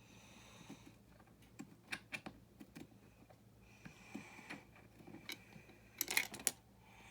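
Small plastic building-brick parts being handled: scattered light clicks, with a quick run of louder clicks about six seconds in.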